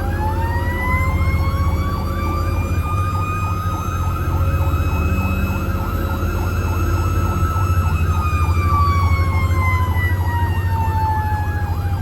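Emergency vehicle sirens. A slow wail rises over the first few seconds, holds, falls away from about eight seconds in, then starts rising again near the end, with a fast yelp sweeping several times a second alongside it. A steady low engine rumble runs beneath.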